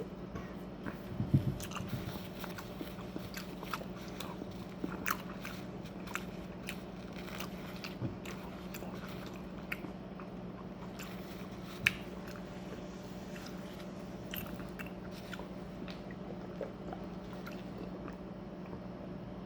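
Close-miked chewing and mouth sounds: scattered small clicks and crunches of a person eating, over a steady low hum, with a louder knock about a second in.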